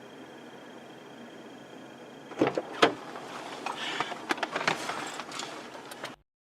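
Vehicle crash as heard from a dashcam: two loud bangs about half a second apart, followed by a few seconds of clattering and knocking. The sound then cuts off suddenly.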